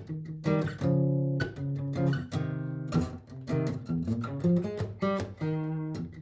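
Martin GPCPA4 acoustic guitar playing chords without singing, the notes struck every half second or so and left to ring.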